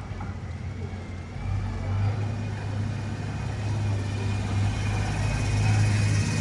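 A motor vehicle's engine running with a steady low hum, which comes in louder about a second and a half in and holds.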